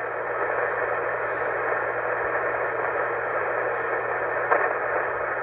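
Steady static hiss from an HF ham radio receiver tuned to the 20-meter band, the band noise heard through its narrow voice passband while no station is transmitting. A faint click comes about four and a half seconds in.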